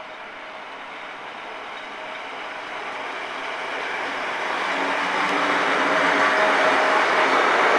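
Regional electric train pulling out of the station and passing close by, its rolling and running noise growing steadily louder as the front car and then the carriages go past, with a faint steady hum in the second half.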